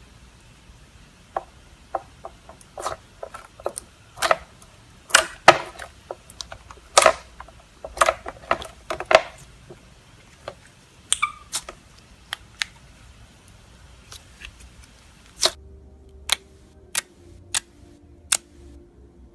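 Slime being squeezed, stretched and poked, giving sharp irregular clicks and pops. About three-quarters of the way through, a different clip takes over with evenly spaced clicks, roughly one and a half a second, over a faint steady hum.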